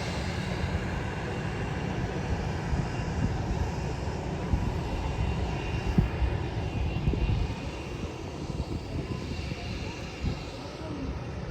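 Jet airliner engines running loud and steady, a low rumble with a faint high whine, easing off after about seven and a half seconds.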